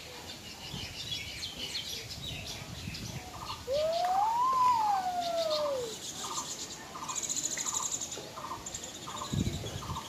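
Mixed birdsong: high chirping and chatter, one long clear whistle that rises then falls about four seconds in, then a run of short notes at about two a second.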